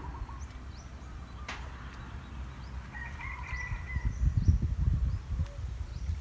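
Small birds chirping with short high calls, and a longer bird call about three seconds in. A low rumble, loudest from about four to five and a half seconds, is the loudest sound.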